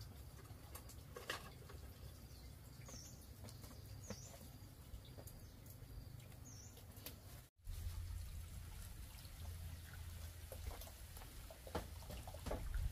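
A few short, high bird chirps, three of them in the first half, over scattered light taps and rustling. After a brief break about two-thirds of the way through, a low steady hum comes in and the tapping grows louder near the end.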